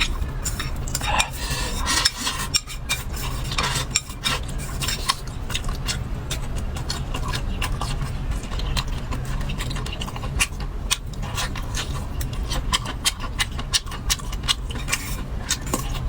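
Eating sounds: chopsticks or utensils clicking and scraping against a bowl, with many short irregular clicks, over a steady low hum.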